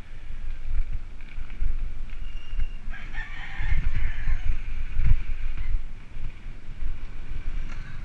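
A rooster crowing once, a call of nearly three seconds that starts about three seconds in, over wind noise on the microphone.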